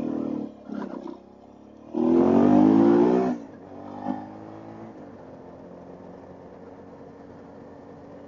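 Suzuki V-Strom DL650's V-twin engine revving up twice, briefly at the start and louder from about two seconds in, then running steadily at a lower level.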